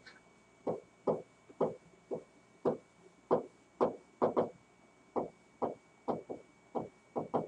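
A stylus tapping and scraping against an interactive display screen while writing letters by hand: about fifteen short, sharp taps at an uneven pace, roughly two a second, one for each pen stroke.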